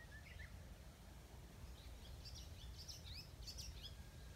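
Small birds chirping: a short note near the start, then a quick cluster of high chirps and brief sliding notes from about two seconds in, over a faint, steady low background rumble.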